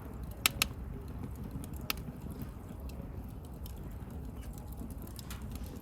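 Wood bonfire crackling over a steady low rumble, with a few sharp pops about half a second in and just before two seconds, and many faint small crackles in between.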